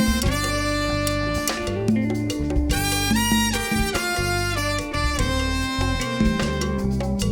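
Live band playing an instrumental passage: saxophone and trumpet holding melody notes over electric bass, drums and percussion, in a jazzy groove.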